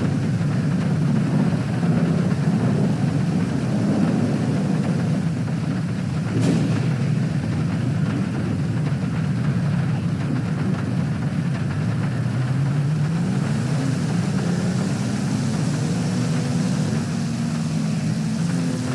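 Low, steady rumble of a car heard from inside the cabin, with a hiss of heavy rain over it. There is one sharp tap about six and a half seconds in. In the second half, a faint hum slides up and down in pitch.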